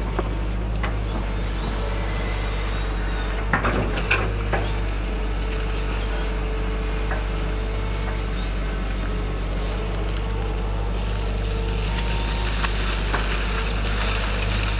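Excavator's diesel engine running steadily with a constant hydraulic whine, and a short cluster of sharp cracks and knocks about four seconds in.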